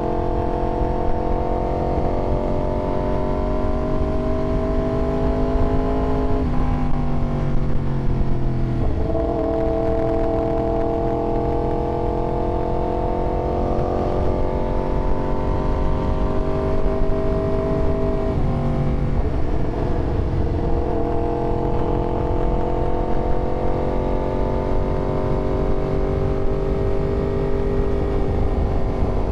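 Yamaha R1 motorcycle's inline-four engine running under way, its pitch climbing slowly and dipping twice, about 7 and 19 seconds in, before climbing again.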